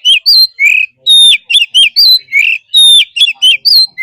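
Oriental magpie-robin singing loudly: a fast run of clear whistled notes, many sliding down in pitch, in quick repeated phrases with short gaps.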